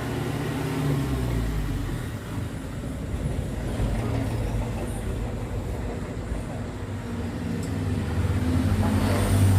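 A large engine running with a steady low hum. Its pitch drops about a second in and rises again near the end.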